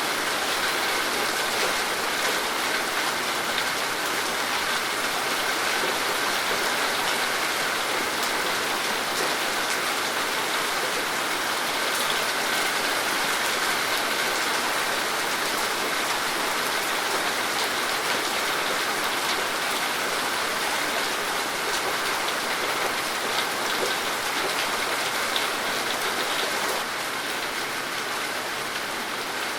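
Steady rainfall: an even hiss of rain with scattered drop crackles, easing slightly near the end.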